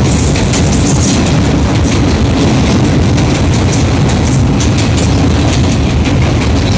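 Train running across a steel truss rail bridge: a steady low rumble with a rapid, irregular clatter of wheels on the rails that grows busier about halfway through.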